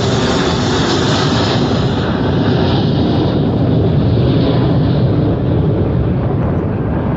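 Jet airliner taking off under engine power: a loud, steady rush of jet noise with a strong low rumble. Its higher hiss fades from about two seconds in while the rumble stays.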